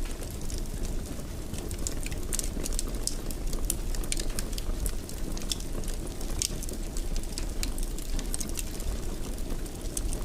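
Wood fire burning in a fireplace: a steady low rush with frequent irregular sharp crackles and pops, several a second.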